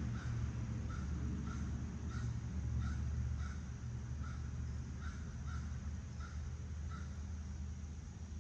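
A crow cawing in a quick, steady series of short harsh calls, about one and a half a second, which stop about seven seconds in. A steady low rumble runs underneath.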